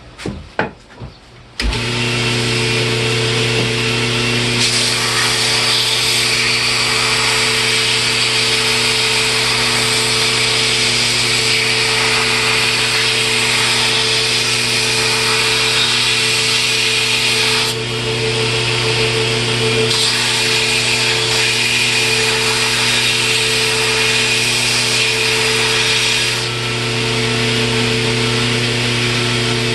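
A few knocks, then an electric shop power tool starts about two seconds in and runs steadily, cutting and shaping a small piece of red oak for a wood shim. Its motor hum stays constant while the noise of the wood being worked eases off and comes back a couple of times.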